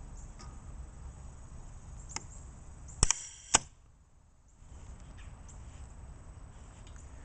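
A 1960s Zon propane bird cannon's diaphragm valve mechanism cycling with no sparker fitted, so it does not fire. A light click about two seconds in, then two sharp clacks half a second apart about three seconds in as the gas charge is released unlit. The steady low hiss drops out for about a second after the clacks, then resumes.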